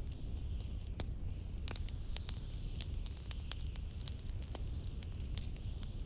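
Wood fire crackling with many sharp, irregular pops, over a steady low rumble of blizzard wind.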